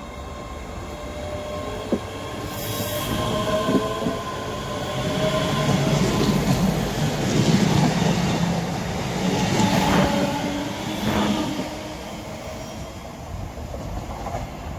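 A ScotRail passenger multiple-unit train passing through the station without stopping. The rumble of its wheels on the rails builds as it approaches, is loudest as the carriages go by about six to eleven seconds in, then fades as it moves away.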